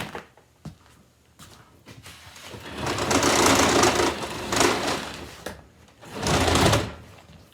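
A kitchen table scraping and rattling across the floor as it is dragged: one long drag of about three seconds, then a shorter one near the end.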